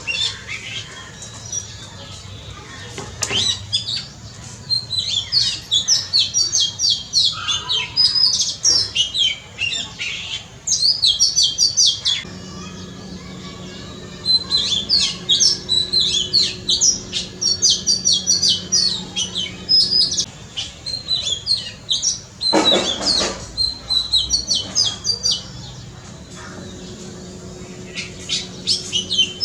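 Oriental magpie-robin singing: long runs of quick, varied whistled notes, high-pitched, broken by short pauses. A brief loud noisy sound comes about two-thirds of the way through, and a faint steady hum sits underneath at times.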